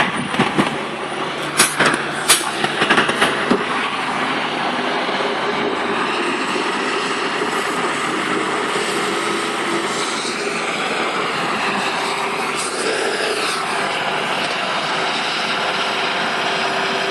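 Truck engine running steadily with a continuous mechanical din. A few sharp clicks or knocks come in the first few seconds.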